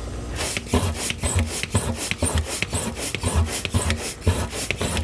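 Mighty Pump hand pump worked in quick, even strokes on a clogged air-conditioner condensate drain line, about two to three rasping pumps a second, pulling air and water through the line to clear the blockage.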